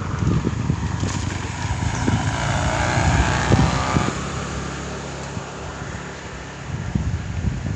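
A motor vehicle passing by, growing louder toward the middle and then fading away, over low wind rumble on the microphone.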